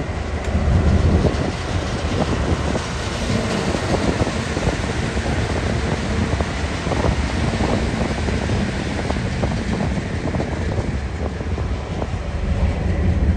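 Two TasRail TR-class diesel locomotives passing with a heavy low engine rumble, loudest at first, then container flat wagons rolling by with wheels clicking over the rail joints.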